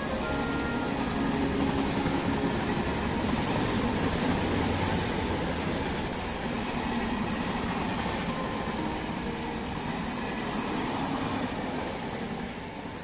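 Indian Railways passenger train of LHB coaches running past: a steady rumble and rush of wheels on rails. It fades away near the end as the last coaches go by.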